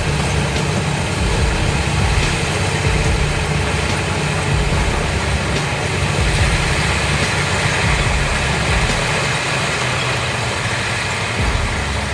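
Heavy vehicle's diesel engine running steadily at low revs.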